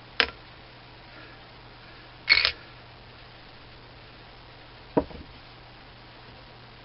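Three short, sharp metallic clicks a couple of seconds apart as the disassembled lathe tool-post parts are handled, over a faint steady hum.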